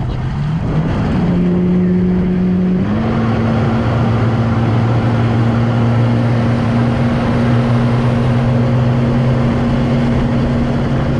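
Motorboat engine speeding up to tow a tube. Its pitch climbs in steps over the first three seconds, then it runs steadily at speed.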